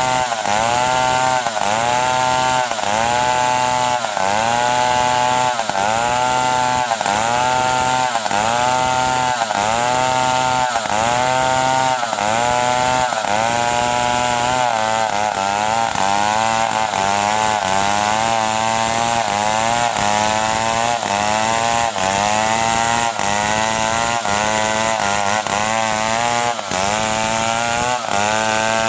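Stihl 070 two-stroke chainsaw running at high revs while cutting timber into boards. Its pitch dips and recovers in a steady rhythm, a little over once a second, as the engine slows under load with each push into the cut. The rhythm changes to slower rising sweeps about halfway through.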